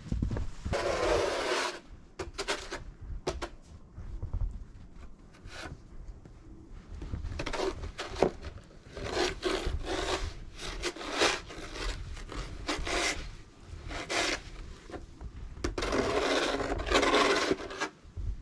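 Deep snow being scraped off a wooden deck in several long, scratchy strokes, with shorter scrapes in between; the longest strokes come about a second in and near the end.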